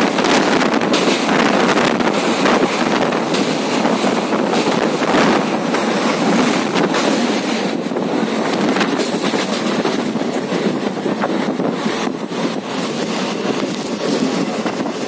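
Passenger train running at speed, heard from an open carriage window: a steady rush of wheels on rails mixed with wind on the microphone, with frequent sharp clicks and knocks.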